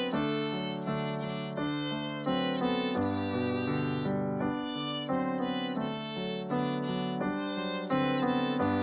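Orchestra playing a melody carried by violins over a moving bass line, the notes changing every half second or so.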